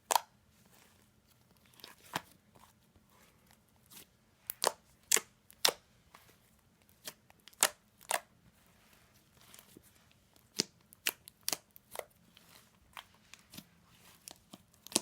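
Green sand slime being handled, making irregular sharp clicks and pops, some loud and some faint, sometimes several within a second.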